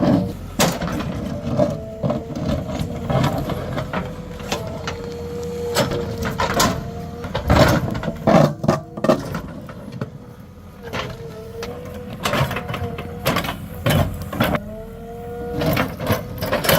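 JCB 3DX Plus backhoe loader's diesel engine and hydraulics running under load, with a whine that dips and rises in pitch as the machine works. Many sharp knocks and clatters of metal and stone come through it, thickest about halfway through.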